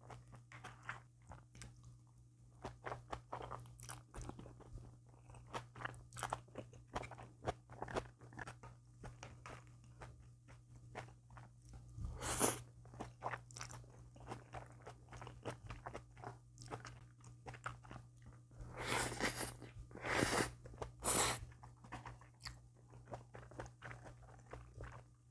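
Close-miked chewing and crunching of food, many small wet clicks, with a few louder crunching bursts about halfway through and three more close together near the end.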